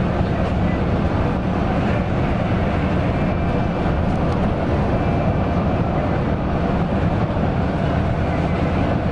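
Mercedes-Benz OC 500 RF 2542 coach running steadily: a constant low rumble of engine and drive noise with no revving or changes.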